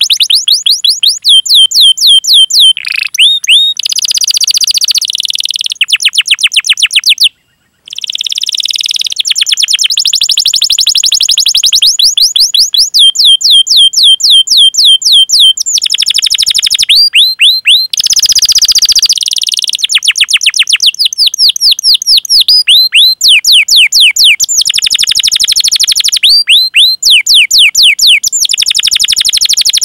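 Domestic canary singing its 'cuit cuit' call: fast runs of repeated high chirps, each sweeping down in pitch, several a second, with short pauses between runs. The song breaks off for about half a second around seven seconds in.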